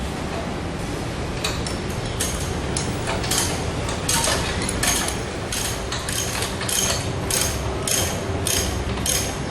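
Ratchet wrench being cranked, its pawl clicking in short bursts on each back-swing. A few uneven strokes come first, then about three seconds in it settles into a steady rhythm of about two and a half strokes a second.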